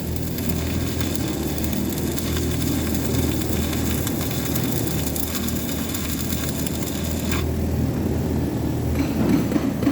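Stick-welding arc crackling and hissing steadily, then cutting off abruptly about three-quarters of the way through as the weld is finished. A steady low hum runs underneath throughout, with a few light knocks near the end.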